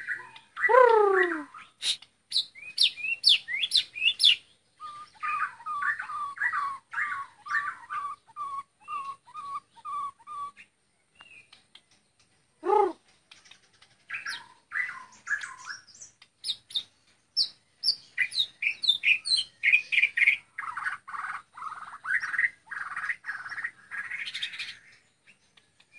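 Ten-month-old Bornean shama (murai batu Borneo) singing a varied song of clear whistles. It opens with falling whistles, then a run of about a dozen evenly repeated notes, a single long falling whistle, and fast mixed phrases near the end.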